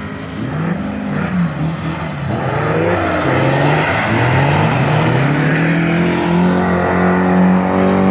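Race car engines revving, among them a turbo-diesel Volvo, the pitch climbing and dropping with gear changes. The sound grows louder about three seconds in and settles into a steady, high-revving pull.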